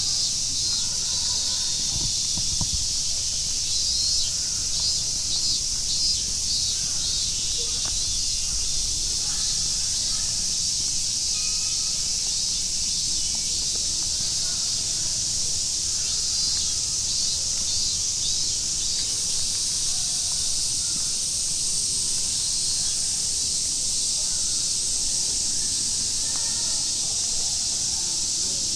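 Steady high hiss of falling rain, with a faint rapid chirring near the start and again about midway.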